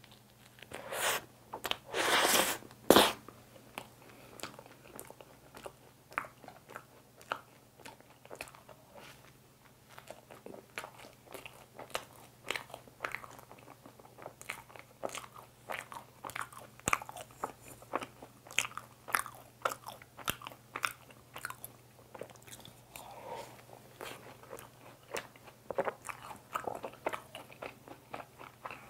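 Close-up eating of a fresh cream mocha bun: a few loud crunchy bites into the bun between about one and three seconds in, then a long stretch of chewing with many small clicks.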